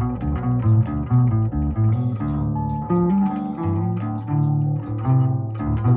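Instrumental rock music played on layered electric bass guitars in drop D tuning (a Schecter Stiletto Stealth bass), with drums. A low bass line moves under higher melodic bass parts, and the notes change several times a second.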